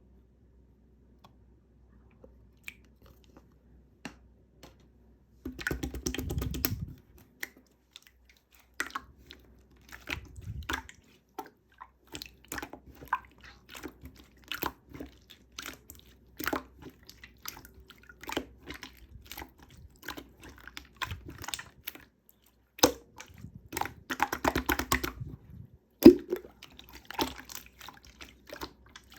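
Clear slime being squished, poked and stretched by hand: sticky clicks and pops, sparse at first, then coming thick and fast, with bursts of dense crackling about six seconds in and again near the end.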